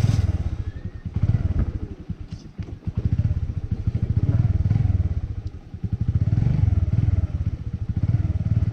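Small motorbike engine, started just before, running and revving up and down repeatedly as it pulls away on a rough track.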